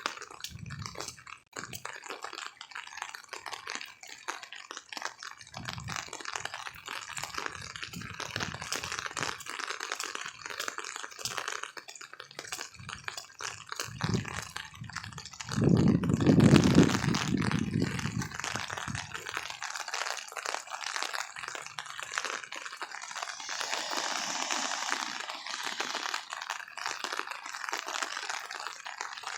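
Heavy rain pouring down, a dense steady patter of many drops. A louder low rumble swells for about four seconds just past the middle.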